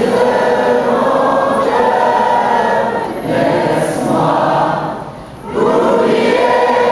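Many voices singing together in a choir-like sound: two long held phrases with a short break about five seconds in.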